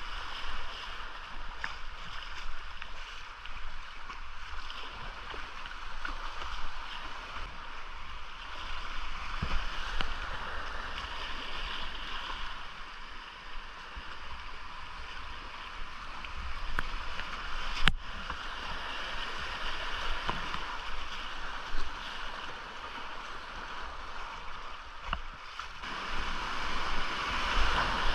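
Rushing creek whitewater: a steady hiss of fast water that swells and eases, with a low rumble underneath and a few sharp knocks, the clearest about eighteen seconds in.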